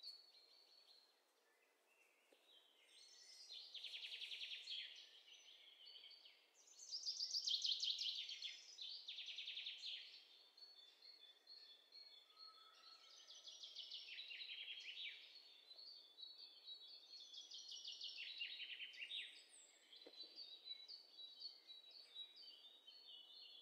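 A songbird singing faint, high-pitched phrases of rapid trills, with a few held notes and short pauses between phrases.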